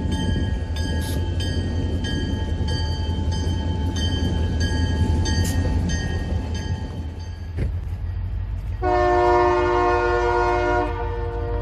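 Diesel locomotives rumbling past while a grade-crossing bell rings about twice a second, stopping about two-thirds of the way through. Near the end a diesel locomotive air horn sounds one long blast of about two seconds, the loudest sound here.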